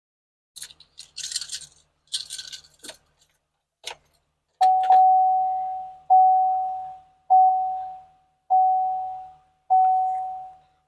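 Rustling and a few clicks, then a pickup truck's dashboard warning chime: five even single-pitch dings about a second apart, each fading away.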